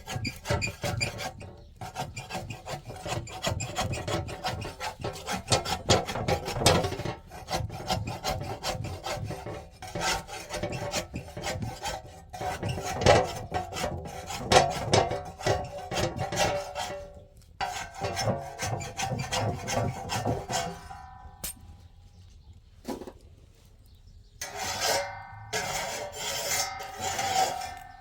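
Rapid rubbing strokes, one after another, that stop for a few seconds near the end and then start again.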